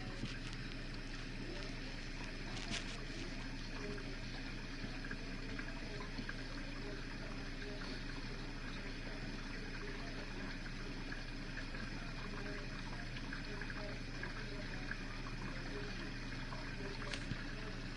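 Whirlpool dishwasher filling with water before the wash: a steady trickle and hiss of water running into the tub over a low, constant hum.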